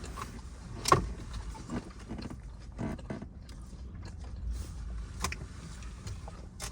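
Close-up chewing of a crispy fried chicken wrap, with several sharp crunches over a few seconds, over a low steady rumble.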